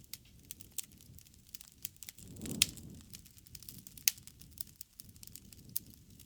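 Campfire crackling: an irregular run of sharp pops and snaps over a low rumble of burning wood, with a louder pop about two and a half seconds in and another about four seconds in.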